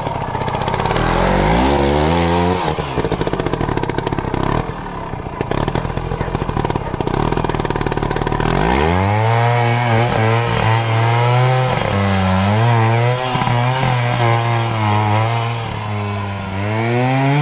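Trials sidecar outfit's motorcycle engine revving hard under load on a climb, its pitch rising and falling with the throttle. It rises in the first couple of seconds and runs rougher in the middle. From about halfway it holds a high, wavering rev and climbs again near the end.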